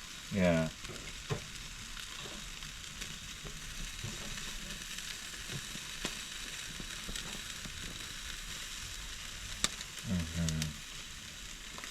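Jerk chicken legs sizzling on a barbecue grill: a steady hiss with faint crackles and one sharp pop near the end.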